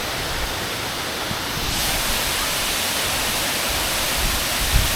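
A large waterfall rushing in a steady roar of falling water, a little brighter from about two seconds in.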